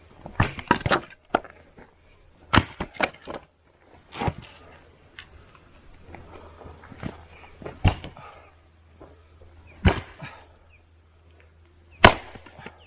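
Axe chopping firewood: sharp cracks of the blade striking and the wood splitting, a quick cluster of hits near the start and another about two and a half seconds in, then single blows roughly every two seconds.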